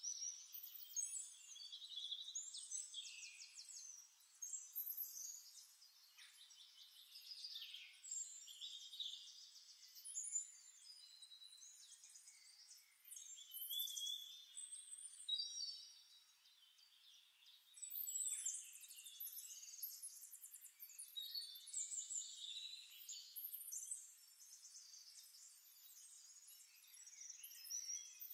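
Faint birdsong: several birds chirping and trilling in quick, high phrases, one after another.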